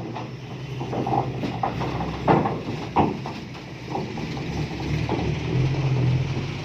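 Diesel engine of an Isuzu FXZ 360 dump truck idling with a steady low hum, with a few sharp knocks over it.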